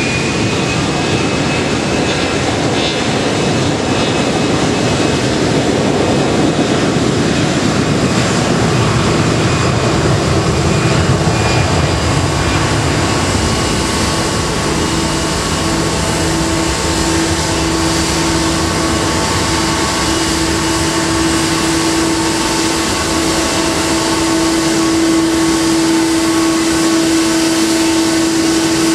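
Boeing 777-300's twin jet engines heard inside the cabin: a loud, steady roar with a high whine that rises and levels off about a second in. A steady hum in the engine noise grows stronger in the second half.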